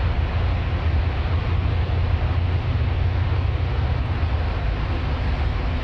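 Steady in-cabin running noise of a bus on the move: a constant low engine and road rumble with tyre and wind hiss over it.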